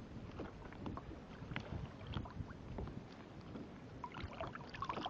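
Water lapping and small splashes against a kayak, with scattered light clicks and knocks over a low rumble on the microphone.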